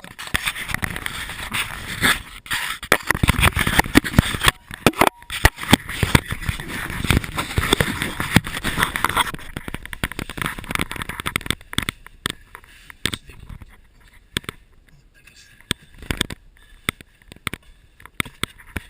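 Scraping and rubbing with many sharp clicks and knocks, dense and loud for the first half, then thinner and quieter with scattered knocks.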